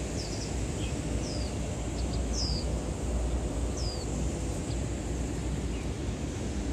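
A bird giving short, high, falling chirps, about five of them spread over several seconds, over a steady low city rumble.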